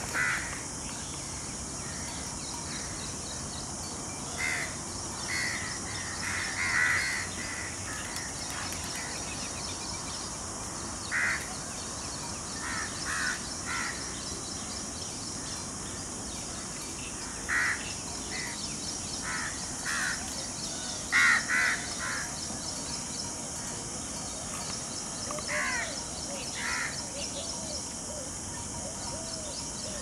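Birds giving short calls, a dozen or so scattered through, some in quick pairs, over a steady high hiss.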